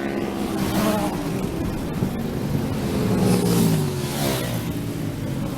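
Racing motorcycles going past at speed one after another, each engine note dropping in pitch as it passes.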